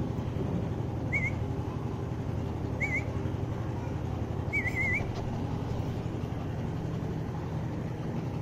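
A bird's short wavering chirps, heard three times in the first five seconds, the last a quick double, over a steady low outdoor rumble.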